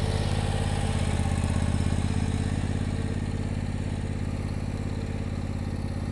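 Bad Boy Elite zero-turn lawnmower's engine running steadily with an even, fast pulsing beat.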